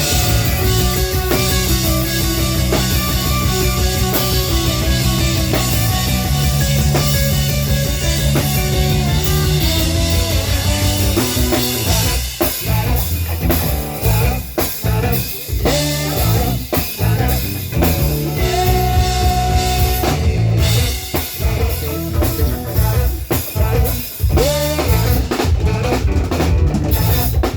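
Live band playing: drum kit and guitar over a steady beat with held notes. About halfway through the playing turns into choppy, stop-start hits with short gaps between them.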